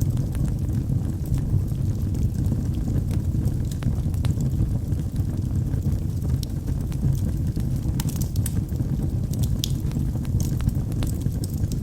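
Wood fire burning in a fireplace: a steady low rumble of flames with scattered sharp crackles and pops from the burning logs, more of them about eight to ten seconds in.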